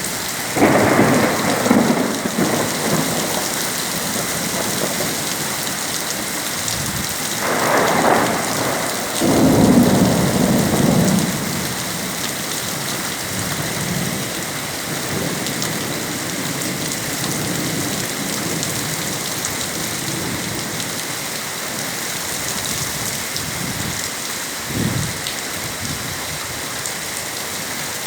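Heavy rain pouring steadily, with low rolling rumbles of thunder about a second in and again from about eight to eleven seconds in.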